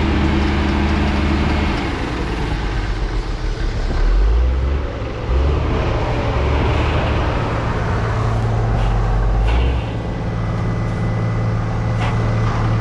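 Heavy diesel engine of silage-harvest machinery running, its engine speed changing several times.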